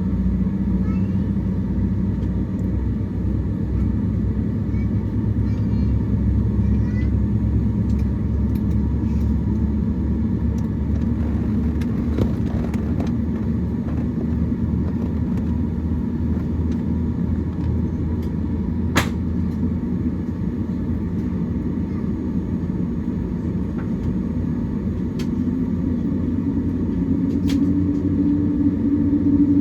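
Steady low rumble and hum inside the cabin of a Boeing 787-8 on the ground, with a humming tone that rises in pitch near the end. A single sharp click about nineteen seconds in.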